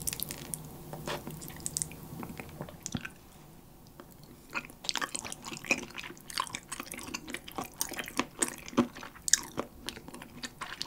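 Close-miked chewing of spicy Korean chicken feet (dakbal): wet, sticky mouth sounds with many small irregular clicks, sparse for a moment near the middle, then busier from about four and a half seconds in.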